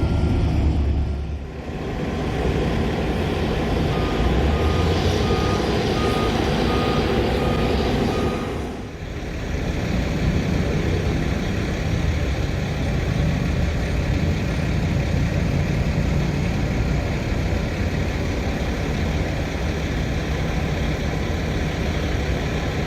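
Asphalt trucks' diesel engines running close by in a steady drone. A truck's reversing alarm beeps about twice a second from about four seconds in until about eight and a half.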